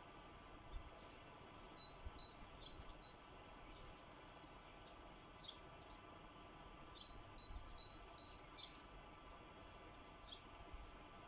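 Sparrows chirping faintly at a bird feeder: short, high chirps in two quick runs, one about two seconds in and one about seven seconds in, with a few single chirps between, over a faint steady hum.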